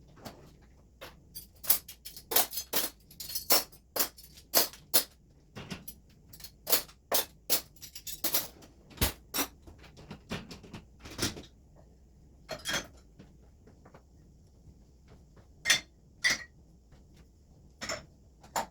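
Dishes and glassware being handled in a kitchen, clinking and knocking against each other: a quick run of sharp clinks for about ten seconds, then a few scattered ones near the end.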